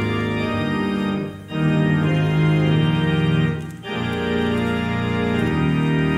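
Organ playing sustained full chords, breaking off briefly twice between phrases.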